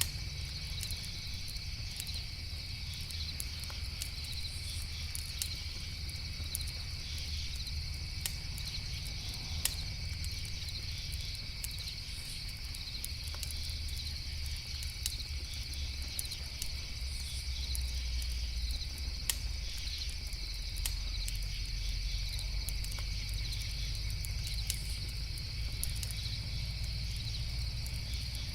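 Crickets chirring in a steady continuous chorus, with sharp crackles from a campfire now and then and a low rumble underneath.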